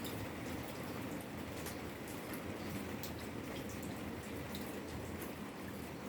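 Steady rain falling, with a continuous hiss and many scattered drops pattering and dripping.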